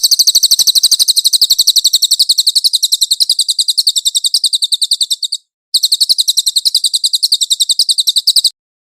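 A cililin bird singing a long, fast trill of high, evenly repeated notes, about nine a second. It breaks off briefly after about five seconds, resumes, and stops shortly before the end.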